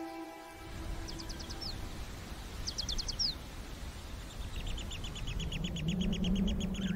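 Wild birds calling in dry bush: two short rapid trills, each ending in a falling note, then a longer fast trill running on from about the middle. Background music fades out in the first two seconds, and a low steady hum comes in near the end.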